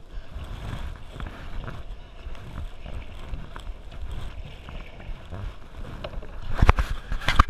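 Water sloshing around a canoe with wind rumbling on the microphone, then loud, choppy splashing that starts about a second before the end.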